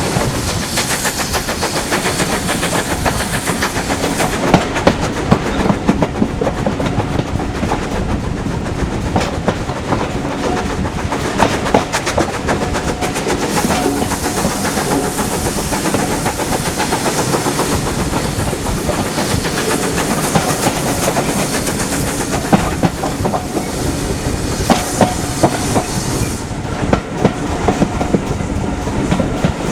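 A train running along the track: a steady rumble and rattle, with the wheels clicking over the rail joints again and again.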